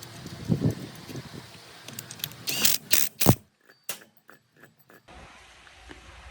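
A series of mechanical clicks and knocks, like metal parts being handled or fitted, with the loudest few sharp knocks about two and a half to three and a half seconds in, then a switch to a quiet steady background.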